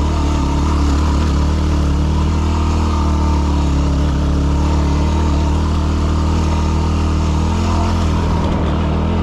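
Yamaha WR250R dual-sport motorcycle's single-cylinder four-stroke engine running on a trail climb at a steady pitch, which shifts slightly about three-quarters of the way through.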